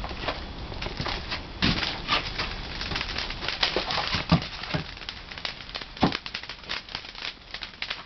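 Pine firewood burning in a traditional wood-fired kiln, crackling with irregular sharp pops, a few louder ones standing out.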